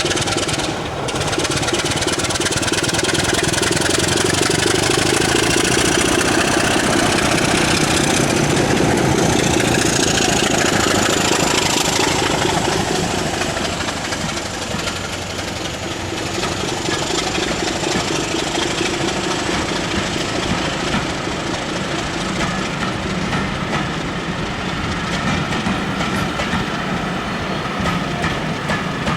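Diesel locomotive engine running, a steady mechanical drone with a high whistling tone that rises in pitch about a third of the way in, and a slight drop in level about halfway through.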